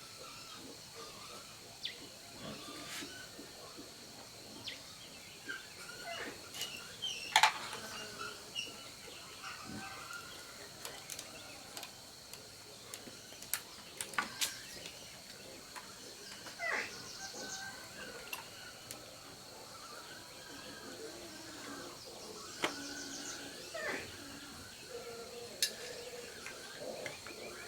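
Scattered light clicks and knocks over a steady high-pitched whine, with occasional short bird chirps.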